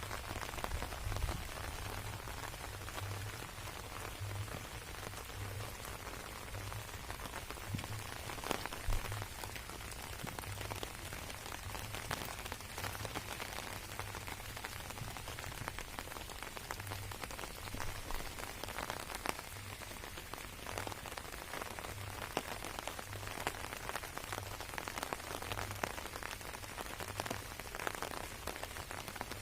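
Steady rain falling on garden plants and surfaces, with many individual drops pattering through it. A low rumble comes and goes underneath.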